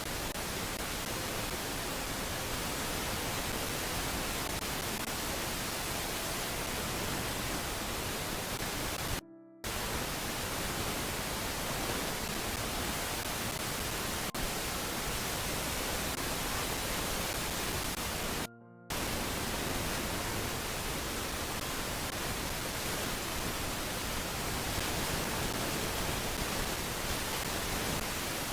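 Steady, even hiss of noise with no distinct calls in it, cutting out briefly twice, about nine and about eighteen seconds in.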